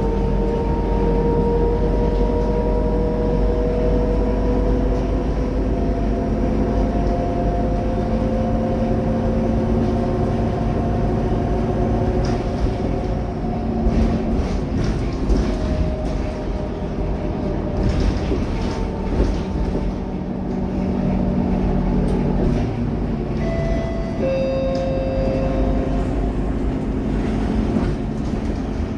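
Scania K230UB city bus under way, its five-cylinder diesel engine and drivetrain running with a whine that rises slowly in pitch as the bus gathers speed, some knocks and rattles midway through, and a few short tones near the end.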